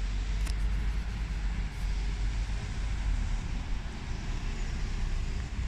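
Scania N230UD double-decker bus's diesel engine running with a steady low drone.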